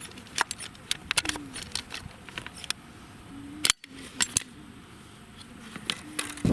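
Irregular sharp clicks and snaps of PVC pipe and fittings being handled and cut for a well plumbing repair.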